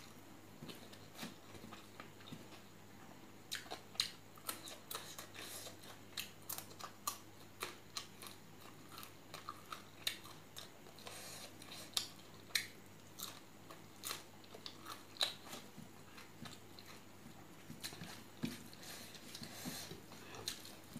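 Close-up eating sounds: wet chewing and mouth smacks in sharp, irregular clicks, a few a second, as rice mixed with pork curry is eaten by hand, with fingers working the rice on a steel plate.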